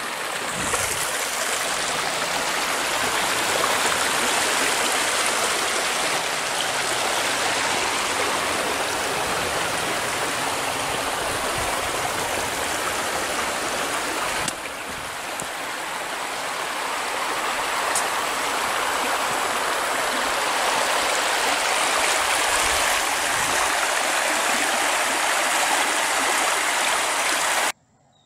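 Loud, steady rushing of flowing water in a creek, close by. It cuts off abruptly near the end.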